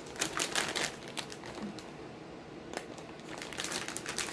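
Plastic chip bag crinkling as it is handled, in irregular bursts of crackles that thin out for a moment in the middle.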